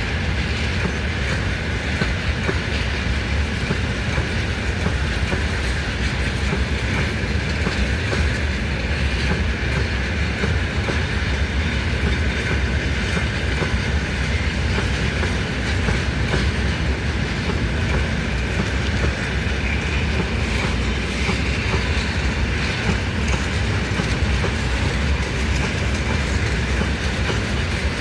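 Freight train wagons rolling past, a steady rumble with the clickety-clack of wheels over rail joints, unbroken throughout.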